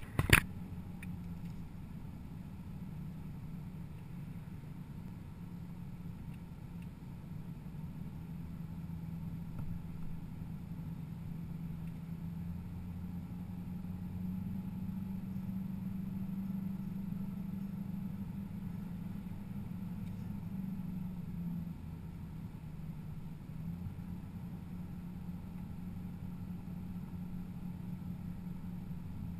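Car engine running steadily, heard from inside the cabin as a low hum whose pitch rises slowly and then drops suddenly about twenty-one seconds in. A single sharp knock right at the start.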